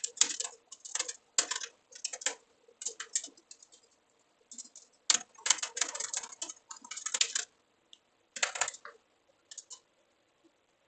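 Computer keyboard typing in quick bursts of keystrokes with short pauses between them, thinning to a few scattered key presses near the end.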